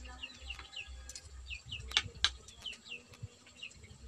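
Small birds chirping in short, quick falling notes, over and over, with two sharp clicks about two seconds in.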